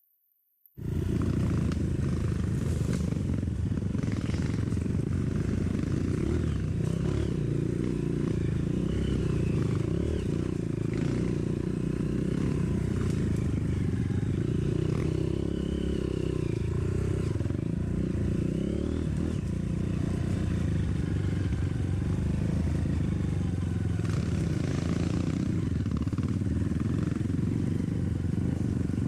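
Dirt bike engine running steadily, cutting in abruptly about a second in.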